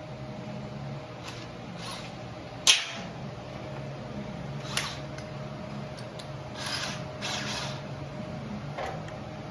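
A few sharp clicks and knocks from tools or metal parts being handled, the loudest about three seconds in, over a steady low hum.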